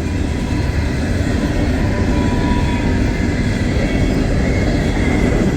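Empty coal hopper cars of a long freight train rolling past, a steady rumble of steel wheels on the rails.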